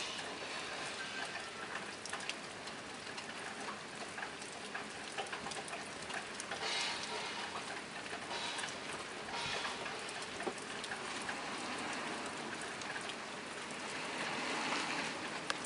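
Steady rain falling on a tin roof, an even patter of drops with many sharp little ticks, swelling briefly a few times.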